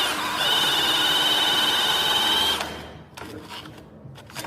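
Power drill cutting a hole for a socket box: a loud, steady high-pitched whine that dips for a moment at the start, runs on, then stops about two-thirds of the way through, followed by a few light knocks.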